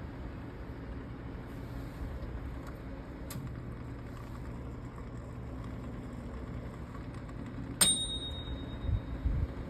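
National NE-5640 microwave oven running with a steady low electrical hum. About eight seconds in, its timer bell strikes once with a bright ding that rings out for about a second, marking the end of the cooking time. A few low thumps follow near the end.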